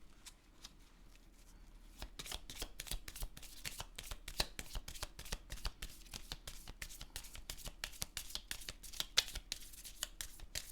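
Tarot cards being shuffled by hand: a fast, continuous run of soft card flicks and riffles that starts about two seconds in.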